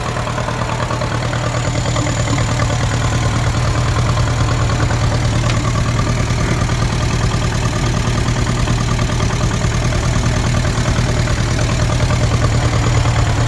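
1949 Ferguson TEA20 tractor's four-cylinder engine running steadily, getting a little louder over the first few seconds.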